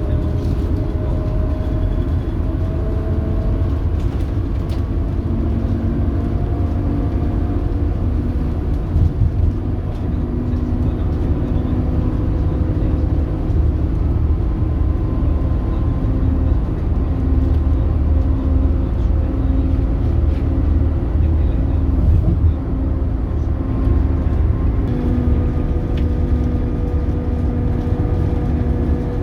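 Scania K280UB bus's Scania DC9 five-cylinder diesel and ZF Ecomat 6HP604C automatic gearbox running under way: a steady heavy rumble with a thin driveline whine. The whine rises a little in pitch over the first few seconds as the bus gathers speed.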